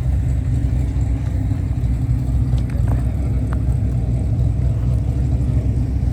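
Steady low rumble throughout, with a few faint clicks about halfway through.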